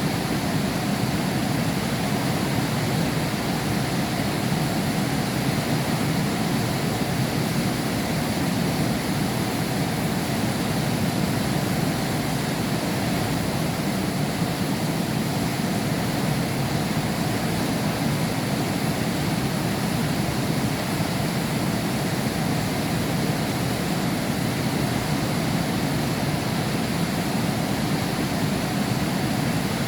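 Heavy rain heard through window glass: a steady, even rush, fullest in the low range, with no break or separate drops standing out.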